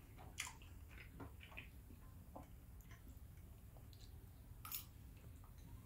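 Faint chewing and mouth sounds of a person eating pasta with a fork, with scattered small clicks and two sharper ones, about half a second in and near the end, over a low steady room hum.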